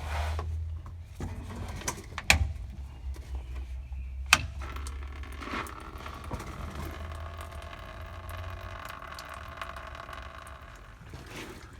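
Two sharp metallic clicks as the drain valve on a diesel fuel filter housing is worked, then a steady trickle of diesel fuel running out of the filter housing into a drain pan.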